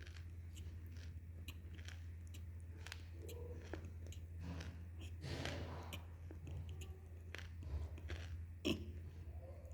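Faint, soft, wet chewing of idli soaked in sambhar, with small mouth clicks and lip smacks and no crunch, over a steady low electrical hum.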